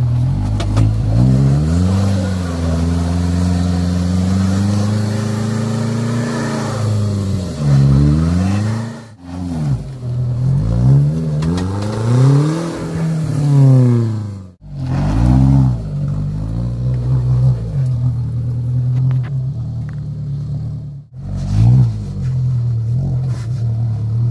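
Renault Duster 2.0 4WD's four-cylinder engine revving up and down under load as the SUV crawls through ruts and over rock ledges, its pitch rising and falling every second or two. The sound breaks off abruptly three times where the footage is cut.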